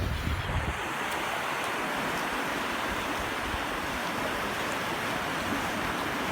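Sea waves washing on a beach, a steady, even rush of surf.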